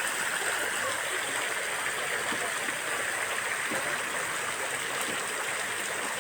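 Running water rushing steadily, like a stream, with no single splash standing out.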